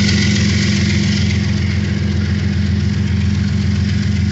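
Diesel-electric freight locomotives' engines running under heavy load, a loud, steady low throb as the consist shoves backwards into the yard.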